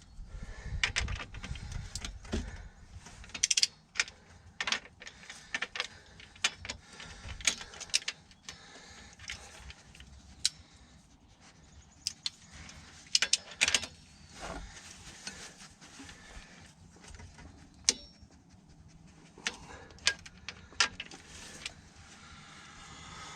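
Irregular metallic clicks and clinks of hand tools and engine parts being handled, some sharp and loud, spaced out with short gaps.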